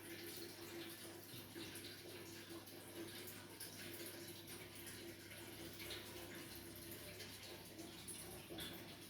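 Water trickling and splashing through an aquarium's overhead sump filter, over a steady low hum.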